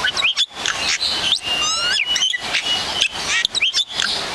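Birds chirping: many short, sharp, rising chirps and whistles, with a quick run of brief upward notes near the middle, over a steady noisy background.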